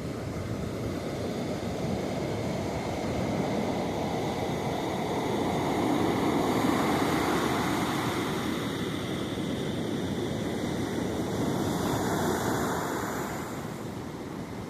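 Ocean surf breaking on the shore, a steady wash of waves that swells loudest about halfway through and again near the end before easing.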